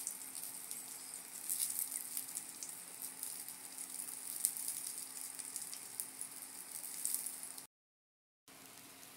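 Sausages frying in hot oil in a pan, a steady sizzle with many small crackling pops. After a short break near the end, a quieter, more even sizzle follows from a pan of fried rice.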